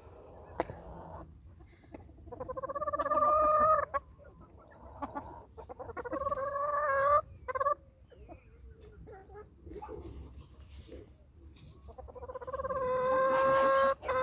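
Chickens clucking, with three long drawn-out calls that swell in loudness: one about two seconds in, one around six seconds, and one near the end.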